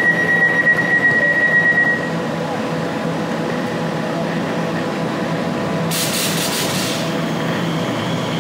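Class 345 electric multiple unit at the platform: a high steady warning tone for the first two seconds as the doors close, a short hiss of air about six seconds in, then a steady electric whine as the train starts to pull away.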